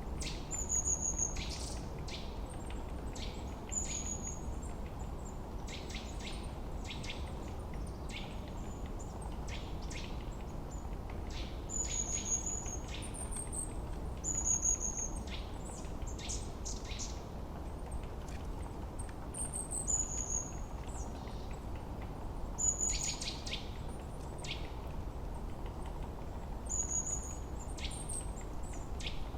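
Forest birdsong: several birds calling, with short, thin, high whistles every few seconds and scattered bursts of chirps, over a steady low rush of background noise.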